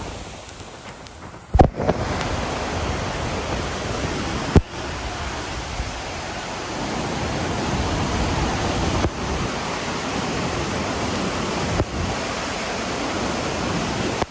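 Steady roar of a large waterfall, the Iguaçu Falls, a dense rushing of falling water. It starts quieter and jumps louder at an abrupt cut about a second and a half in, with another sudden cut a few seconds later.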